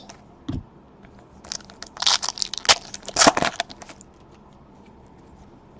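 Crinkling and rustling of trading-card packaging and cards being handled: a burst of crackly noises with sharp clicks in the middle, and a few faint ticks before and after.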